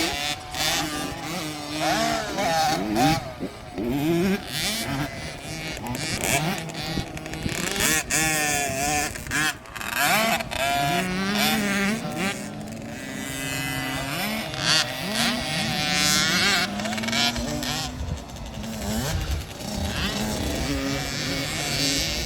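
Several dirt bike engines revving up and down on a motocross track, with overlapping rising and falling engine notes and spectators' voices mixed in.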